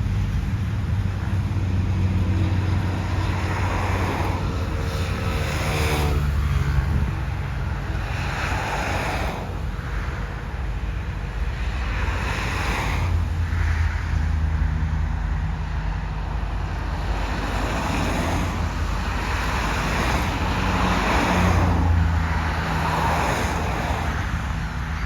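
Road traffic passing one vehicle after another, each swelling and fading, over a steady low rumble with wind on the microphone.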